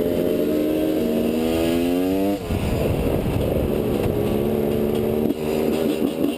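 Enduro motorcycle engine running steadily, then revving up for about a second before the revs drop off abruptly; after a rough, uneven stretch it settles back into a steady note.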